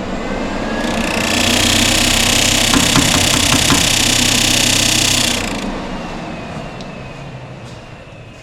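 Electric radiator fan spinning up to full speed with a loud rush of air, a few clicks in the middle, then winding down and fading. The owner then finds the fan broken.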